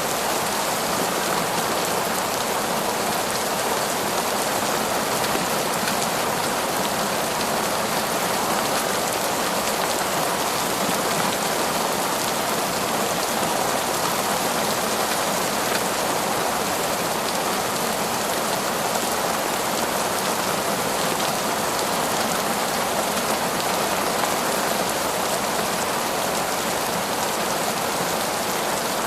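Heavy, steady rain falling torrentially, an even hiss of drops with no thunder or let-up.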